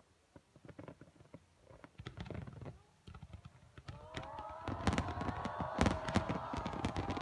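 Fireworks going off: scattered pops and cracks that thicken into dense crackling and bangs from about four seconds in, with several whistling tones that rise and then hold above the crackle.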